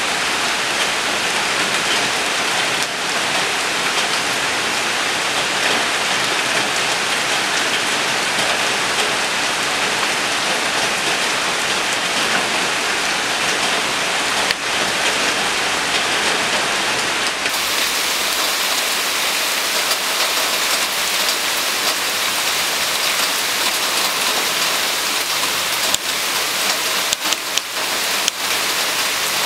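Steady rain falling on surfaces. About two-thirds of the way through the sound turns brighter and hissier with less low rumble, and a few sharp ticks come near the end.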